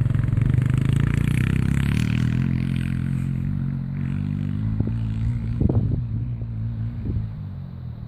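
Suzuki 250cc quad bike engine running at a fairly steady speed and slowly growing quieter, with a few short knocks in the second half.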